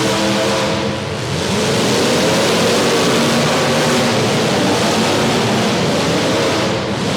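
Several demolition derby cars' engines revving and running at once, their pitches rising and falling over a dense, steady wash of noise.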